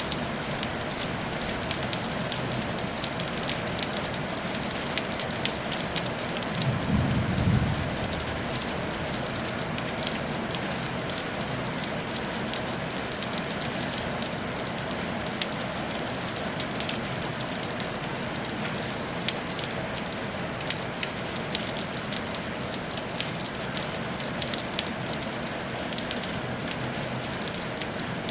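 Steady rain falling on a tile roof, full of small drop ticks. A brief low rumble rises and fades about a quarter of the way in.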